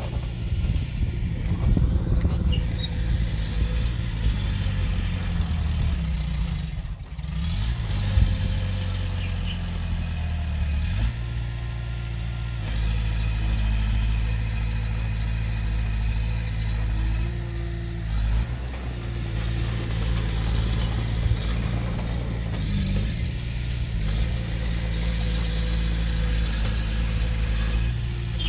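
Diesel engine of heavy earthmoving machinery running steadily, with a brief dip in level about seven seconds in and faint clatter over it.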